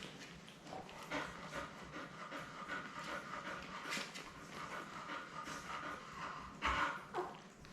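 A dog panting in quick, uneven breaths, with one louder, brief sound near the end.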